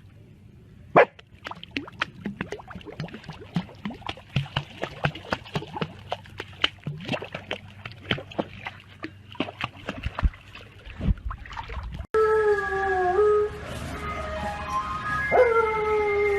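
Music with many quick clicking notes for about twelve seconds. After a sudden cut, a corgi puppy howls: a long, high howl that dips at its end, then a second long howl a couple of seconds later.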